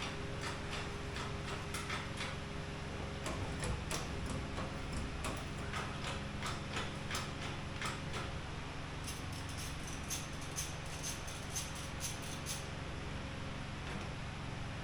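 Irregular clicks and knocks of metal as a Toyota Corolla's engine and gearbox assembly is worked out of the engine bay. They come more densely about nine seconds in, over a steady low hum.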